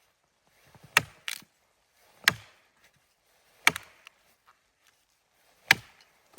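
Wood being chopped: four sharp, loud strikes one to two seconds apart, with a lighter knock just after the first.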